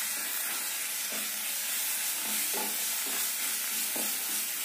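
Onion, ginger-garlic paste and ground spices sizzling in butter in a kadhai, stirred with a metal spatula that scrapes the pan a few times.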